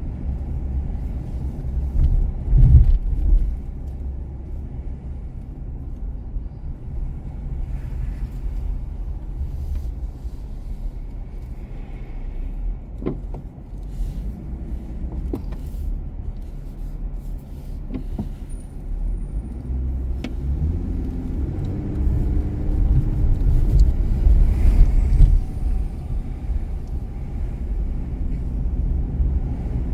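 Car driving through city streets: a steady low rumble of engine and tyres, swelling for a few seconds near the end, with a few faint clicks in the middle.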